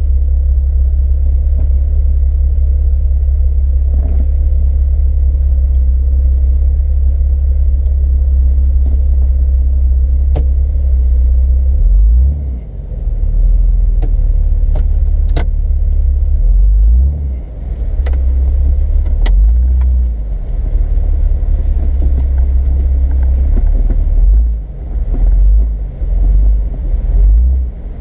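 Off-road 4x4 driving down a trail, heard from on board: a loud, low engine drone that holds steady, then dips and surges unevenly from about halfway through, with a few scattered knocks and rattles.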